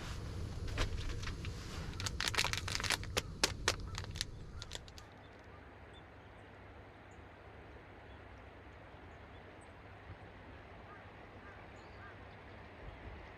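A quick run of sharp clicks and knocks, like things being handled, stopping about five seconds in; then a quiet steady outdoor background with a few faint, brief bird chirps.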